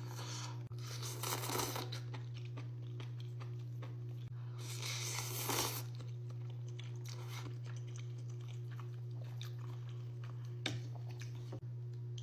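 A person eating close to the microphone: crunchy bites and chewing, loudest about a second in and again around five seconds in, with small mouth clicks between. A steady low hum runs underneath.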